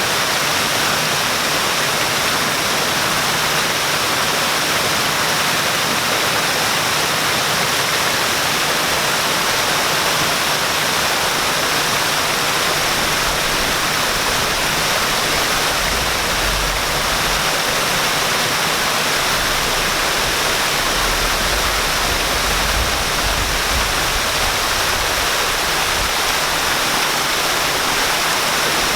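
Waterfall pouring steadily, a dense, even rush of falling water with no pauses. A faint low rumble comes and goes underneath in the second half.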